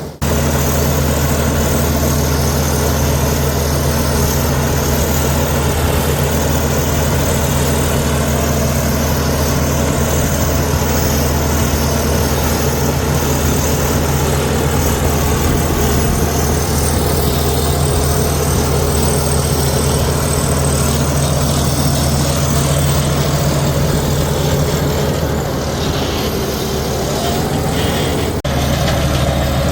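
Heavy diesel engine of earthmoving machinery running steadily at an even speed, with an abrupt change in the sound near the end.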